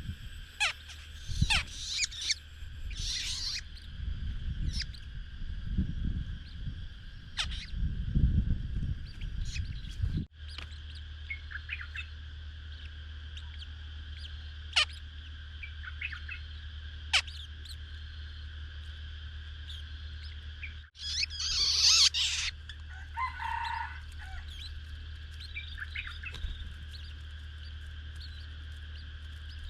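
Small birds chirping with short, sharp calls scattered throughout, and a louder flurry of chirps about two thirds of the way in, over a steady high background hum. A low rumble sits under the first third.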